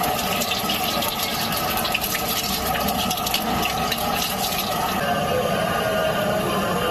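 Egg frying in hot oil in a steel wok: busy sizzling and crackling, with oil ladled over it. The crackling thins to a steadier sizzle about five seconds in.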